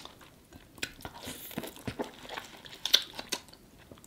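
Close-miked eating of sauce-coated shellfish: wet chewing, biting and smacking, with sharp clicks about one, two and three seconds in.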